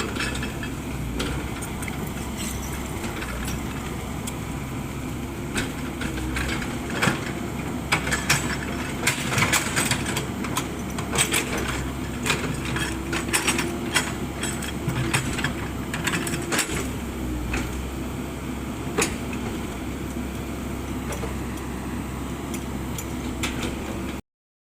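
Komatsu PC78 excavator's diesel engine running steadily, with a quick series of sharp metallic clicks and clanks through the middle stretch. The sound cuts off suddenly near the end.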